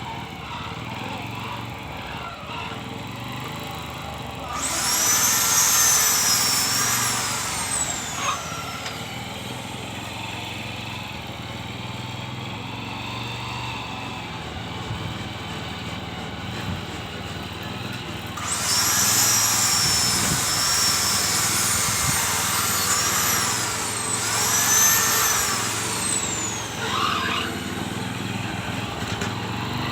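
A small engine running steadily, revved up about four seconds in, eases back down, then is revved again for several seconds past the middle, its whine rising, holding and falling each time.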